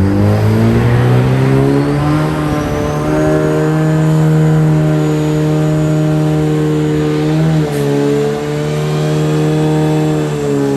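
A car engine revving up and held at high revs during a burnout, with the spinning tyres adding a hissing haze; the revs climb over the first two seconds, then stay steady, dipping briefly twice.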